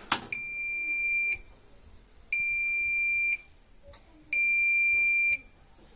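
Washing machine's electronic buzzer giving three long, evenly spaced beeps of about a second each, the signal that the wash cycle has finished, preceded by a sharp click.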